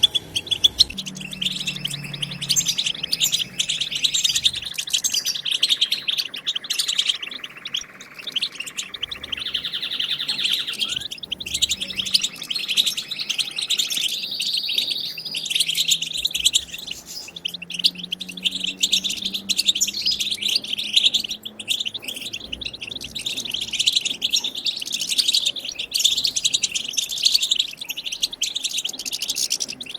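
European goldfinches twittering and chattering: an unbroken run of rapid high chirps and trills, the chattering call that keepers play to get goldfinches singing.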